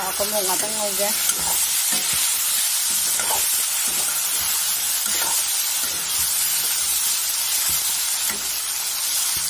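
Hilsa fish pieces and yam chunks frying in oil in a metal wok, sizzling steadily, while a metal spatula stirs them and scrapes the pan now and then.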